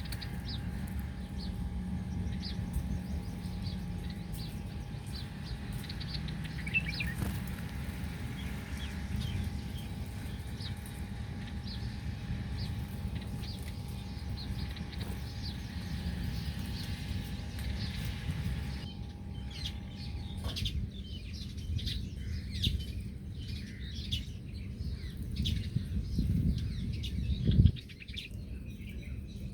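Small birds chirping and calling repeatedly in short notes over a steady low rumble, with a sudden loud thump near the end.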